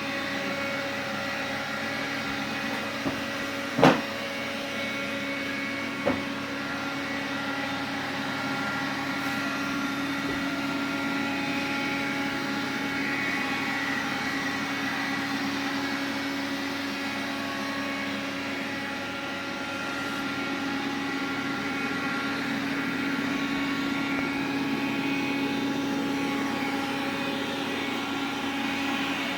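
Xiaomi vacuum cleaner running steadily, a hum with several steady tones, the extraneous noise its owner is concerned about. Two sharp knocks come about four and six seconds in, the first the loudest.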